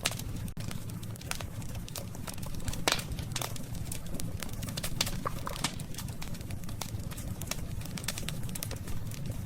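Campfire of burning wood crackling, with frequent sharp pops and snaps over a steady low rumble of the flames; the loudest pop comes about three seconds in.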